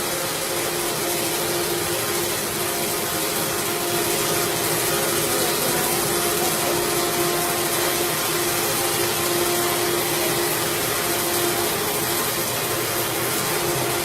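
CNC machine running, a steady whine with a hiss over it.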